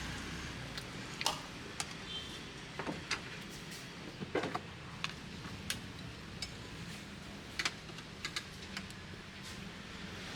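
Faint low steady hum of a vehicle running, with a dozen or so light, irregular clicks and rattles over it.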